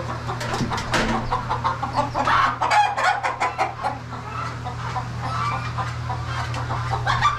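A flock of chickens clucking, many short overlapping calls, over a steady low hum.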